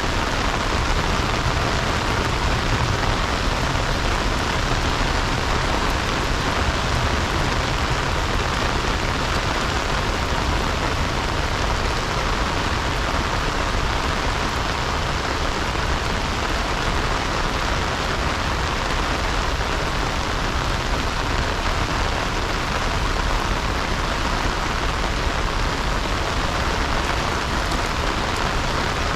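Heavy rain falling steadily, a dense, even hiss of drops hitting the ground with a low rumble beneath.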